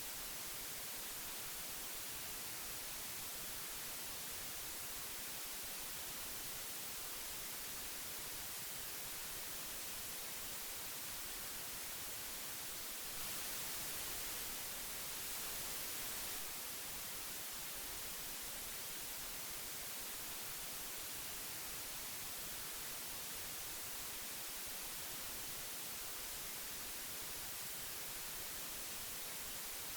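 Old magnetic tape hiss: a steady, even high-pitched hiss, a little louder and brighter for a few seconds in the middle.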